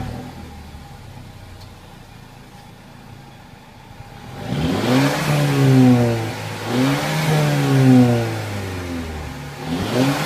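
2014 Mercedes-Benz CLA250's 2.0-litre turbocharged four-cylinder idling quietly, heard from inside the cabin. About four seconds in it is revved twice, each rev climbing and falling back to idle, with the Sport mode off. A third rev begins at the very end.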